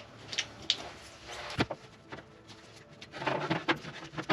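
Hand-work noises of grease being packed into a bolt hole in a jet ski hull: scattered light clicks and taps, busier a little past three seconds in.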